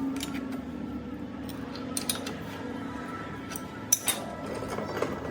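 Metal parts and tools clinking and tapping as they are handled, a few separate sharp clinks with the loudest pair about four seconds in, over a steady low hum.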